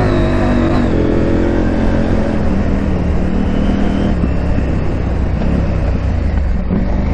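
KTM 890 Adventure R's parallel-twin engine running under way, its pitch easing down about a second in and again a little later, then holding steady over a constant low rumble.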